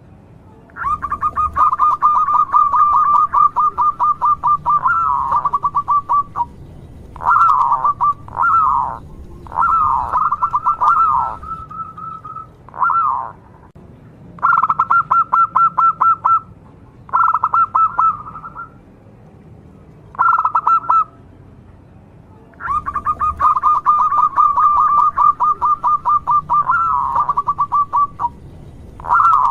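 Local-strain zebra dove (perkutut) cooing: two long runs of fast, even staccato notes, with short separate coo phrases repeated between them.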